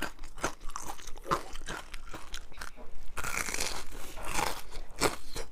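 Close-miked biting and chewing of a crispy fried chicken cutlet. The coating gives irregular, crisp crunches throughout.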